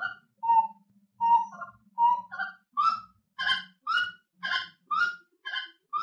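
A bird calling in a steady series of short notes, about two a second, each with a slight upward inflection. The notes turn fuller and brighter about halfway through.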